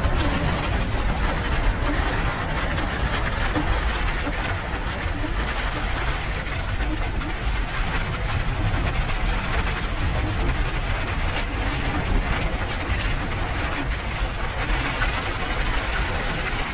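Steady rain, a continuous even hiss over a deep low rumble.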